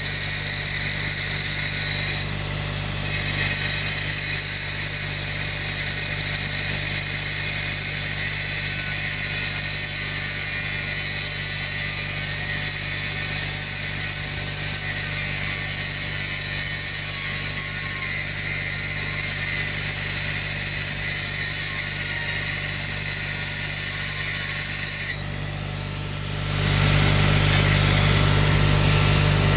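Electric power tool running steadily while steel latch parts are worked for fitting, with a high hiss over a low hum. It dips briefly twice, once about two seconds in and again near the end, and then comes back louder.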